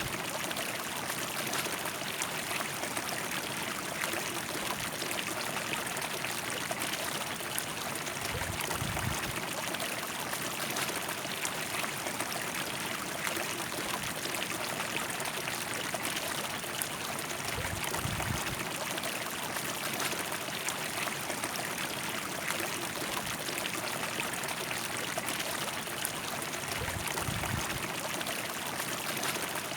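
River water flowing steadily, an even rushing and splashing with no change in level. A soft low bump is heard about every nine seconds.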